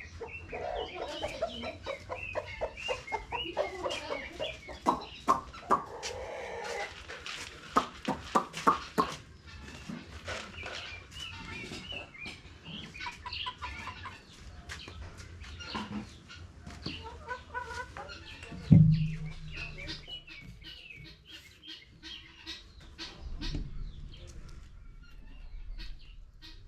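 Domestic chickens clucking and calling. A run of sharp knocks comes in the first half, and a single heavy thump, the loudest sound, comes about two-thirds of the way through.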